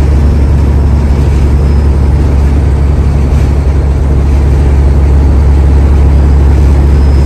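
Steady low drone of a semi-truck's engine and road noise, heard from inside the cab while driving.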